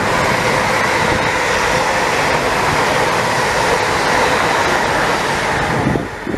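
Train passing through a station: a loud, steady rushing noise that drops away sharply about six seconds in as the train clears.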